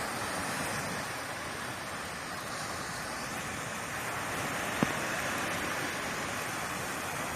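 Sea surf washing onto the beach as a steady rushing noise that swells and eases slowly, with one sharp click about five seconds in.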